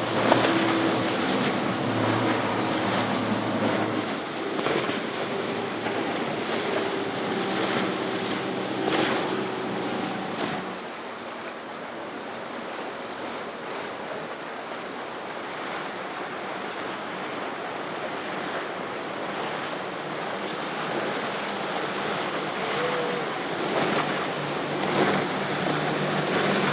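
Outboard-powered center-console fishing boats running past through the inlet: a steady engine drone for the first ten seconds or so fades away, leaving the wash of waves and wind on the microphone, before another boat's engine drone builds near the end.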